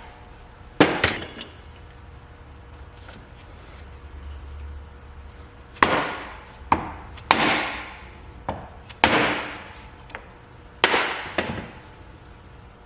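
Hammer blows on a steel part of a Corvette torque tube clamped in a vise, knocking it loose from the shaft. There is one sharp strike about a second in, then a run of several more from about six seconds in, each with a short metallic ring.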